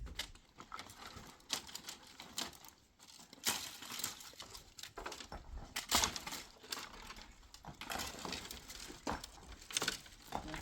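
A run of irregular sharp clicks and knocks, with a few louder ones near the middle and near the end.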